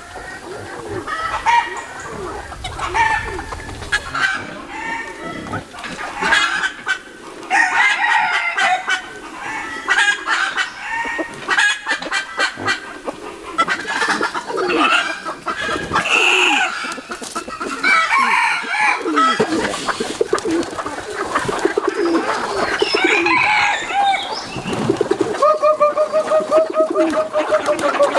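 Chickens clucking, with a rooster crowing in one long held call near the end.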